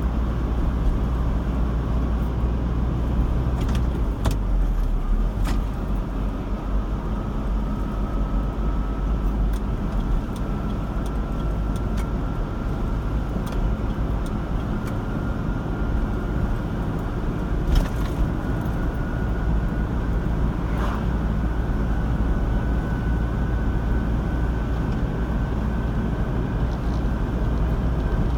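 A car driving on a road: a steady low road and engine rumble, with a faint whine that slowly rises in pitch, and a few light clicks.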